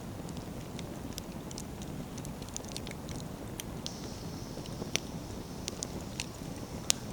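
Wood fire burning with a steady low rush of flame and frequent sharp crackles and pops of burning firewood, the loudest snap near the end. A faint high hiss joins about four seconds in.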